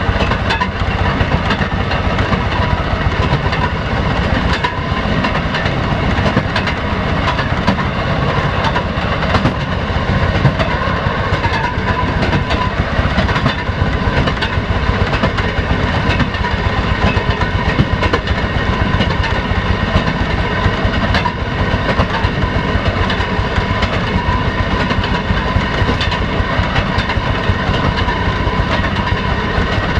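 Railroad motor car (track speeder) running steadily along the rails. Its engine and wheel noise are constant, and the wheels click irregularly over the rail joints.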